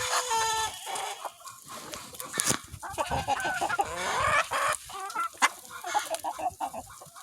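A flock of chickens clucking and calling, with the tail of a rooster's crow cutting off about half a second in.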